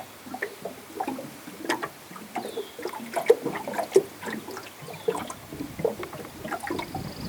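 Water lapping and splashing in irregular small gurgles and slaps.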